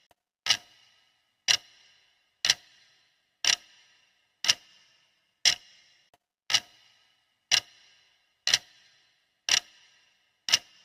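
Sharp clock-style ticking of a countdown timer, one tick each second, every tick a crisp click with a short ringing tail.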